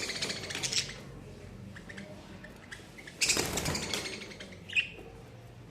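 Budgies flapping their wings in two bursts of fluttering rustle, one at the start and a louder one about three seconds in, with a short sharp sound near the end.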